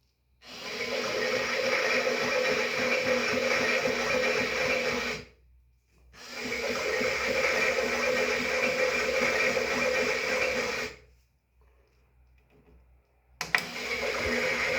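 Small electric motor of a toy washing machine running its drum in a wash cycle: a steady whir that runs for about four to five seconds, stops, starts again, stops for a couple of seconds, and restarts with a click near the end.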